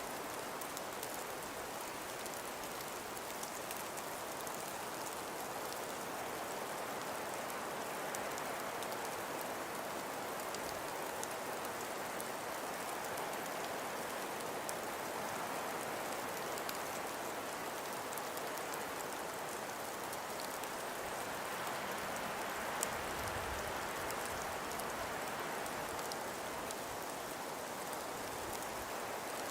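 Steady snowstorm ambience: a constant hiss of wind and falling snow, with fine ticking of snow or ice grains striking a surface. A brief low thud comes about 23 seconds in.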